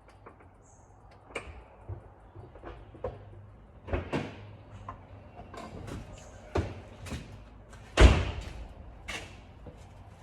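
A series of irregular knocks and clunks, the loudest a heavy thud about eight seconds in.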